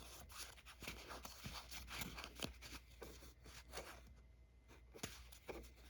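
Faint rustling and light clicks of trading cards being handled and flipped through, denser at first and sparser in the last couple of seconds.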